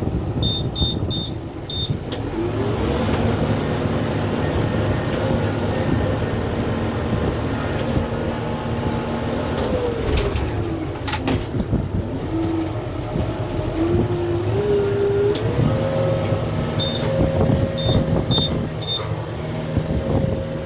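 Kubota M6-141 tractor's diesel engine working hard under load while the grapple pushes against a tree. The engine pitch rises about two seconds in, drops around ten seconds, then climbs back up in steps. Four short high beeps sound near the start and four more near the end, with a couple of sharp cracks around eleven seconds in.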